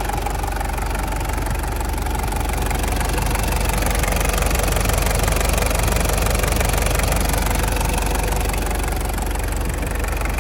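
Toyota 3-litre turbo diesel engine of a 1995 Hilux Surf idling steadily with the bonnet open, with the typical diesel knock.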